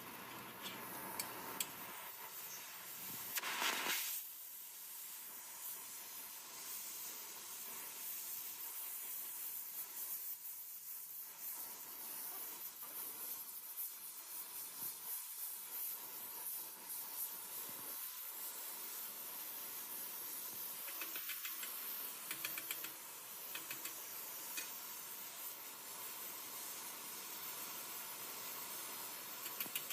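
A steady hiss, with a louder surge about three and a half seconds in and faint scattered ticks.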